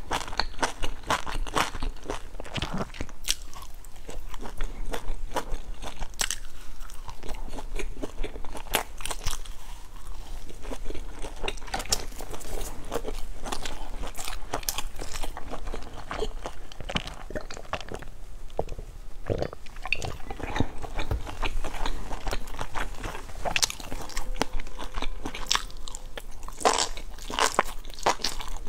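A person chewing and biting crunchy grilled skewered food, an irregular run of crunches and sharp mouth clicks.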